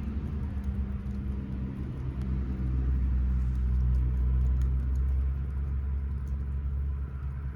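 A motor vehicle's engine running nearby: a steady low hum that swells toward the middle and then eases slightly.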